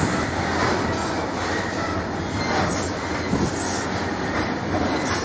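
Freight train of BTPN tank wagons rolling past on the rails: a steady rumble and rattle of wheels and running gear, with a few knocks as the wheels cross rail joints.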